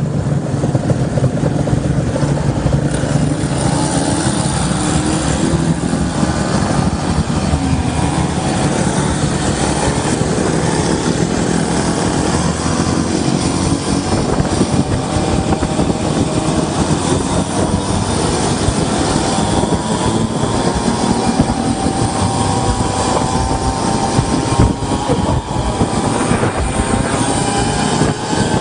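Scooter engine running under way on a ride, its pitch wavering and slowly climbing in the second half, over a heavy low rumble of wind and road noise.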